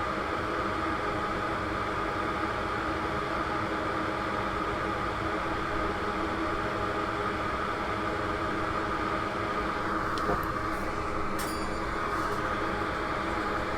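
Steady whirring hum of a small electric motor with a faint whine, unchanging throughout, with a few light clicks between about ten and eleven seconds in.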